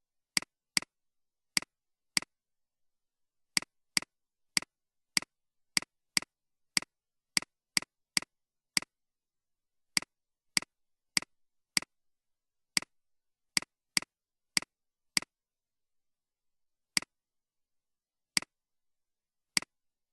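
Computer mouse clicking: about two dozen single sharp clicks at an uneven pace, each a quick press-and-release, with dead silence between them.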